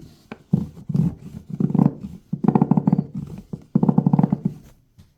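Toothbrush scrubbing a plastic washing machine detergent drawer in five rasping bursts of fast back-and-forth strokes, each lasting about a third of a second to a second.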